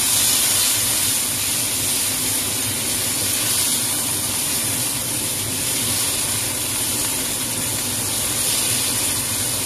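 Tomato wedges and minced garlic sizzling in hot oil in a wok: a steady hiss.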